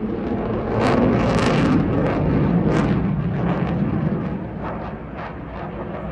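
Jet aircraft flying a display pass: loud engine noise that swells about a second in, full of sharp crackles, then eases off slightly near the end.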